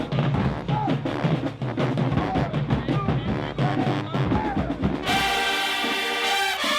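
Marching band drumline playing a cadence of bass drums and snares, then the horn section comes in with loud held brass chords about five seconds in.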